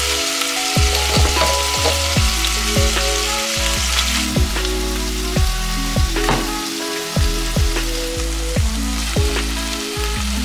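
Shrimp and vegetables sizzling as they fry in a pan, under background music with a bass line.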